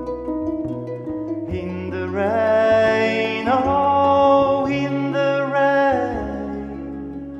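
Live acoustic music: harp and ensemble playing a slow passage, with a held, gliding melody line that swells about two seconds in and fades near the end.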